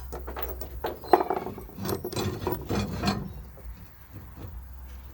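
A heavy bolt-on fixture being turned and shifted on its welded mounting plate to line up the bolt holes: scraping and knocking for about three seconds, with one sharp knock about a second in, then quieter.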